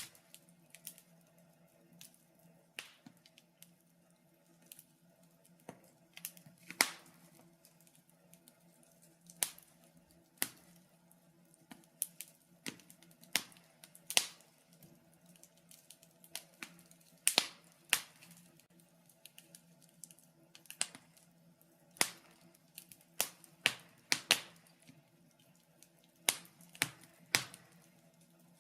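Wood fire crackling in a fireplace: irregular sharp pops and snaps, often a second or two apart and sometimes in quick pairs, over a faint steady low hum.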